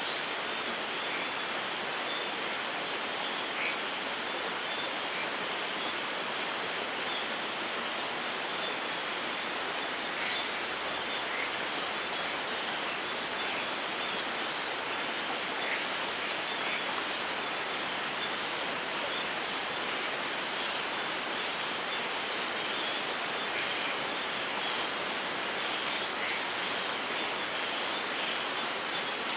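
Steady rain falling, an even hiss with faint scattered drop patter.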